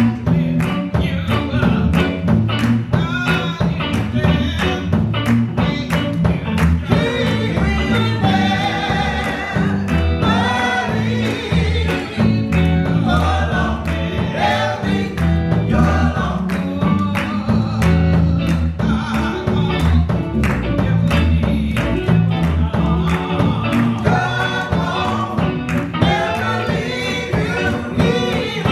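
Gospel choir singing with band accompaniment over a steady beat.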